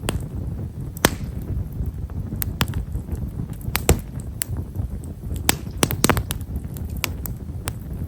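Himeshara (Japanese stewartia) firewood burning in a campfire, crackling with small, fine pops at irregular intervals, a few sharper ones standing out, over a low steady rumble.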